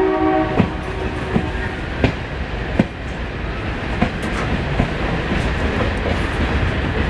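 Moving passenger train heard from an open coach door: a steady running rumble, with the wheels clacking over rail joints roughly once a second. A train horn's held chord cuts off in the first half-second.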